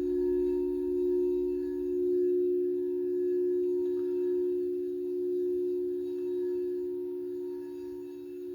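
A singing bowl ringing on a sustained low hum that wavers slowly in loudness, about once a second, and fades slightly near the end.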